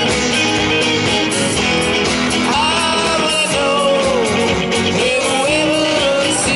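Rock band music with guitar and a melodic line that bends in pitch over a steady beat.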